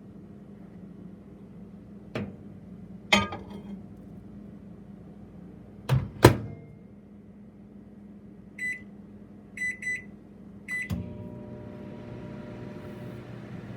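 Microwave oven being loaded and started: a couple of clicks and two loud clunks as the door is handled, then four short keypad beeps. About eleven seconds in a thunk sets off the steady hum of the oven running.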